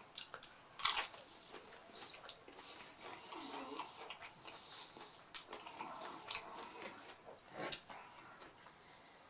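A person biting and chewing crunchy hard-shell mini beef tacos: sharp crisp crunches, the loudest about a second in and several more later, with chewing between them.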